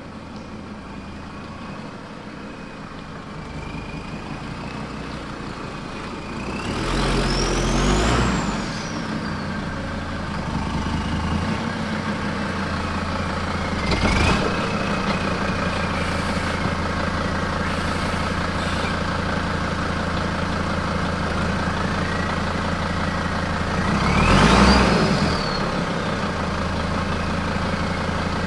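Engine running steadily, swelling three times as the revs rise and fall, each time with a whine that climbs and then drops.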